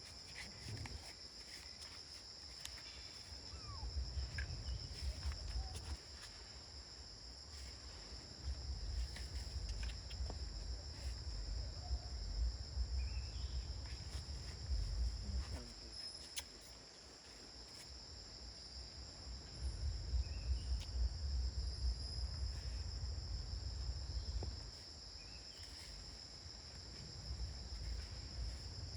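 Insect chorus: a steady high-pitched drone that holds unchanged. It comes with several stretches of low rumble, each lasting a few seconds.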